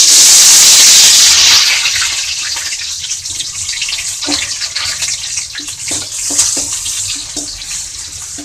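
Curry leaves and chopped onion dropped into hot oil in an aluminium kadai, sizzling loudly at once; the sizzle dies down over about two seconds to a steady crackle with scattered pops, while a spatula stirs them in the pan.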